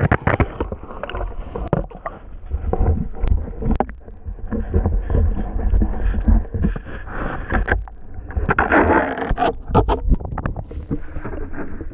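A low, steady rumble with many knocks and rattles over it and noise buffeting the microphone.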